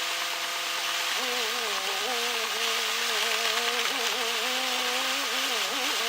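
Car engine droning, its pitch wavering and stepping up about a second in, over a steady hiss.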